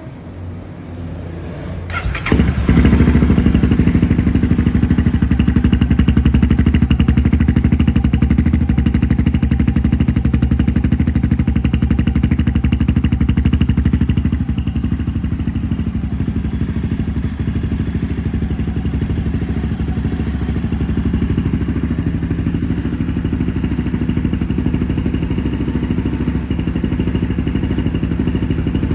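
Honda CRF250F's single-cylinder four-stroke engine running through its stock exhaust. It runs softer at first, rises sharply about two seconds in, then holds a loud, steady note.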